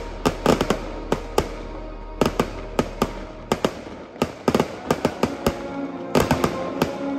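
Fireworks display: a rapid, uneven series of sharp bangs, several a second, over music.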